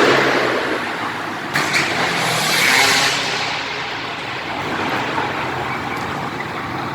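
Motocross bike engines running during warm-up runs, louder around two to three seconds in, then fading.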